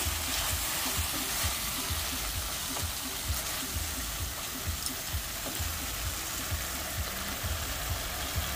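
Curry paste with chopped peppers and tomatoes frying in a stainless steel pan on a gas burner, sizzling steadily while a wooden spoon stirs it, with soft, irregular knocks through it.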